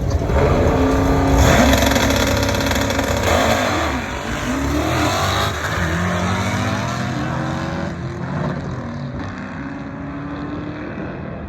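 Car or truck engine revving loudly, its pitch rising and falling. It is loudest for the first few seconds, then eases off.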